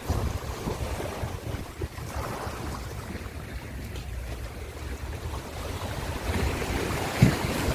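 Ocean waves washing in with wind rumbling on the microphone, the wash swelling near the end. A brief low thump about seven seconds in.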